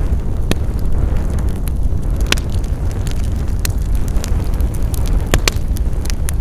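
Wood fire crackling, with sharp scattered pops over a steady low rumble; a quick double pop near the end.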